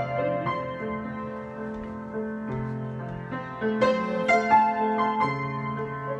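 Solo piano improvising: held chords over low bass notes, with a flurry of struck notes near the middle.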